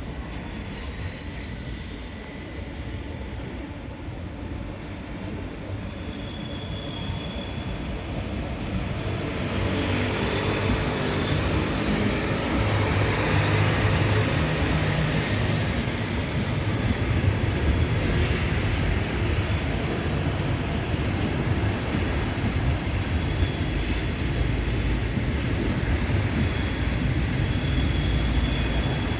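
A passenger train moving through the station on the rails, its running noise and low rumble growing louder about a third of the way in and then staying loud, with faint high-pitched wheel squeals now and then.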